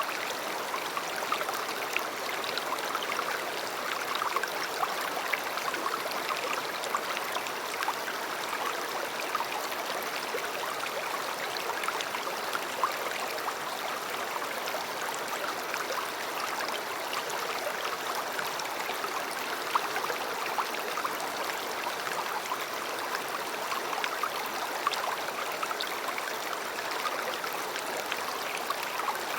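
River water flowing steadily over stones, a continuous rushing with small splashes and gurgles scattered through it.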